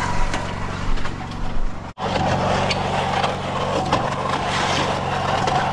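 Small engine running steadily at a constant speed, with scattered scraping and light knocks over it. The engine sound cuts out for an instant about two seconds in, then carries on unchanged.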